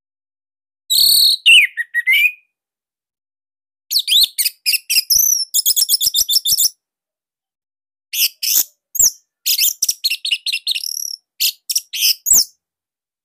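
Orange-headed thrush singing in loud, varied whistled phrases. There is a falling whistle about a second in, then fast runs of sharp high notes from about four seconds and again from about eight seconds, with short pauses between the phrases.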